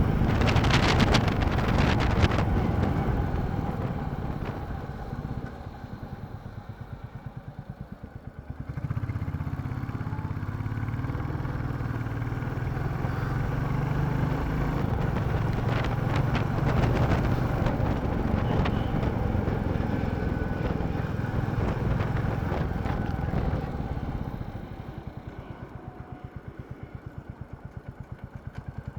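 Royal Enfield Classic 350's single-cylinder engine, with wind noise on the microphone at first. The engine drops to a slow, even thumping at low speed, picks up and runs steadily from about nine seconds in, then slows back to the slow thumping near the end.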